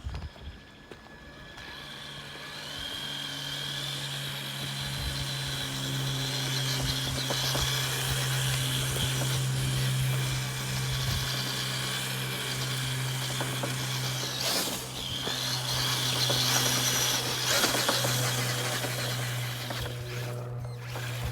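A steady low motor hum at an even pitch, starting about two seconds in, over a constant rushing noise.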